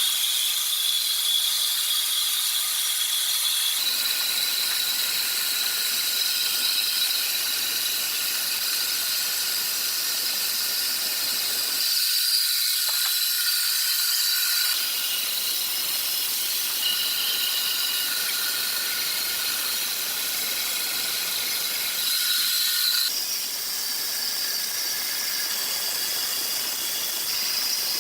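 Sawmill saw cutting through wood: a steady high-pitched whine over a loud hiss, the tone changing abruptly several times.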